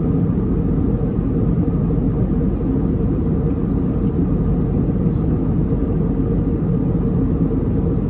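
Airbus A321neo cabin noise in flight: the steady drone of the engines and air rushing past the fuselage, with a faint steady hum running through it.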